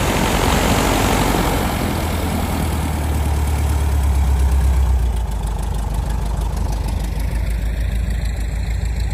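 Light airplane's piston engine and propeller running at low power just after landing, a steady low drone. The high rushing noise fades about halfway through, leaving the engine hum.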